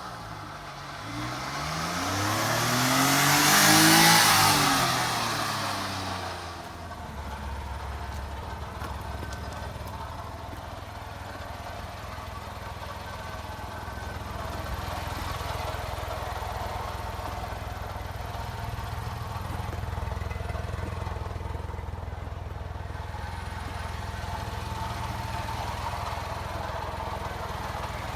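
A vehicle passes close by, loudest about four seconds in, then a small engine, likely the 1989 Daihatsu Hijet kei truck's, idles steadily.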